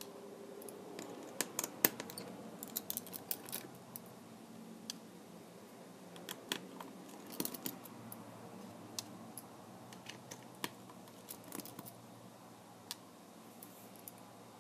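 Scattered small sharp clicks and taps of hand tools and plastic parts being handled while a Kindle Fire tablet is taken apart, in clusters with short gaps between them.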